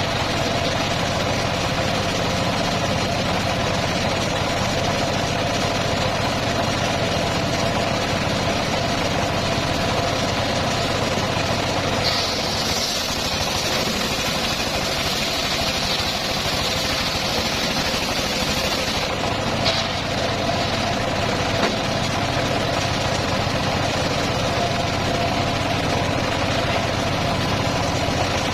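Engine of a homemade circular sawmill running steadily. From about 12 s to 19 s a higher hiss joins it for several seconds.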